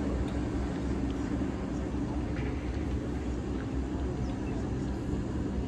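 A steady, low mechanical hum from a running engine or machine.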